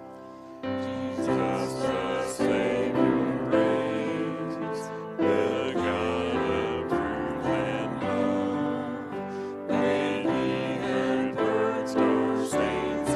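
A worship song played by a church worship team: keyboard with voices singing. It comes in after a brief pause about half a second in.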